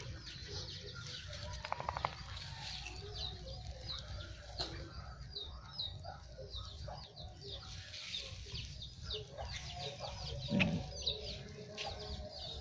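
Birds chirping without pause, many short high falling chirps, with a brief rattle about two seconds in and a short low call about ten and a half seconds in.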